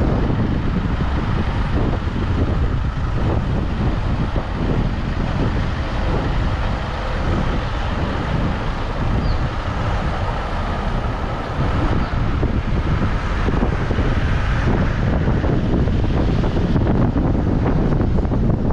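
A car driving, with steady road and engine noise and wind buffeting the microphone throughout.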